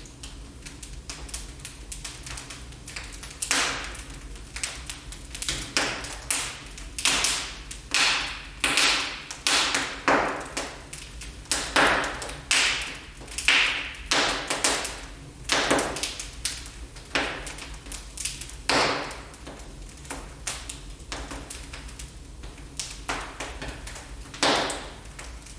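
Wood fire crackling in a fireplace: a run of sharp pops and snaps, coming thickest in the middle stretch and thinning out toward the end.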